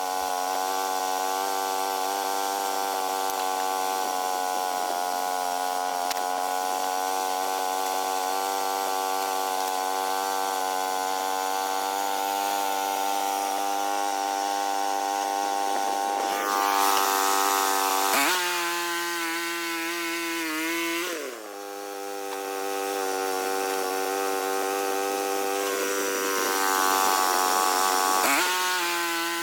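Small sawmill's engine running steadily while its blade cuts a log, with the rasp of the blade in wood. About two-thirds in, the rasp grows louder and the engine note drops under load. It dips briefly a few seconds later, then picks up again; the louder rasp returns near the end.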